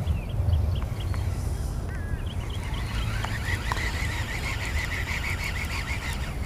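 A bird calling over a low steady rumble. Scattered short chirps come first, then from about three seconds in a fast, even run of chirps that stops just before the end.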